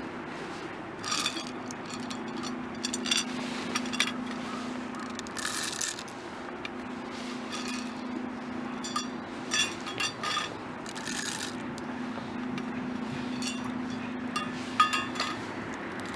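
Light clinks and short scrapes of camp cookware being handled, a dozen or so irregular knocks with a brief ring to them, over a steady low hum.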